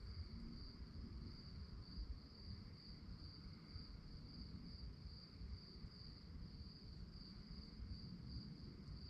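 Crickets chirping steadily at night: an even, high-pitched pulsing trill that goes on without a break, over a faint low rumble of background noise.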